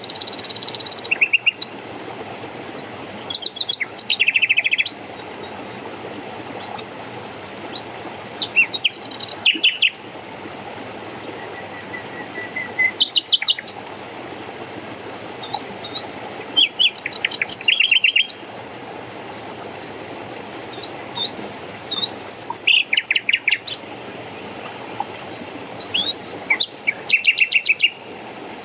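A songbird singing in short phrases every few seconds, each phrase a quick run of high notes ending in a rapid trill, over a steady rush of running water.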